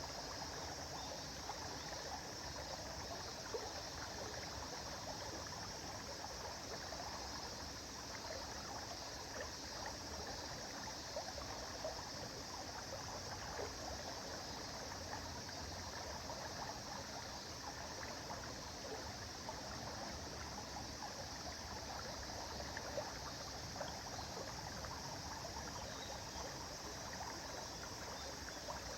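A river or stream flowing steadily, water babbling and trickling over stones with small splashes throughout.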